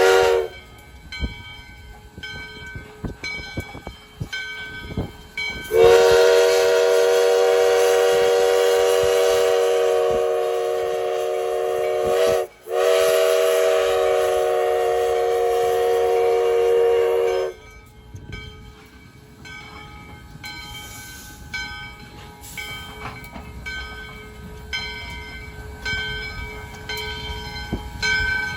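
Steam whistle of US Sugar steam locomotive No. 148: a brief toot, then two long blasts of about six and five seconds with a short break between them, several pitches sounding together.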